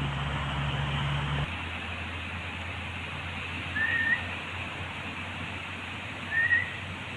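Two short rising whistles, a couple of seconds apart, over a steady outdoor hiss; a low hum in the background stops about a second and a half in.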